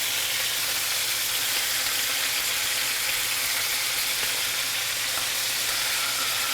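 Chicken thighs frying in hot olive oil in a skillet, a steady sizzle as they brown.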